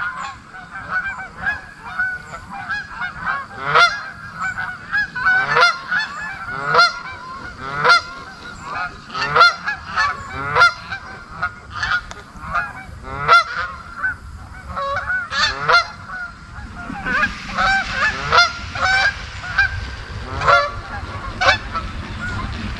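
Geese honking, many overlapping calls several times a second. A low rumble joins in about two-thirds of the way through.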